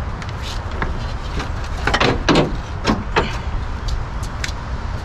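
Car parts and tools being handled during engine-bay work: a handful of sharp clicks and knocks about two to three seconds in, over a steady low rumble.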